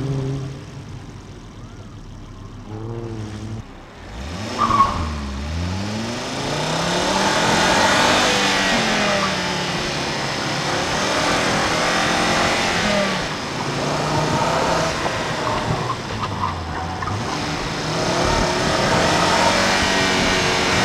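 2009 Volvo C30 T5's turbocharged inline-five engine, recorded by engine-bay and exhaust microphones. It runs quietly at first, then a brief sharp chirp about five seconds in marks the launch. After that the engine revs hard, rising and falling in pitch as the car accelerates and slows through tight turns.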